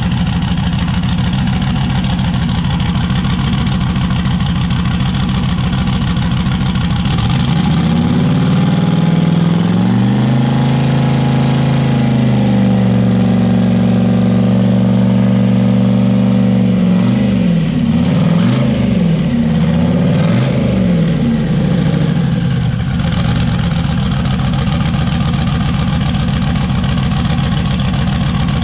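Turbocharged LS V8 in an S10 truck idling, revved up and held for several seconds about a third of the way in, blipped a few times, then settling back to idle. It is running with a miss on only five cylinders, three injectors on the driver's side being clogged.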